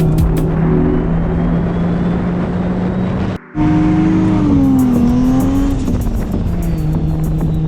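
Car engine running at a steady speed with a steady drone. About three and a half seconds in the sound cuts out briefly, then the engine note comes back higher and falls away as the car eases off, before settling into the steady drone again.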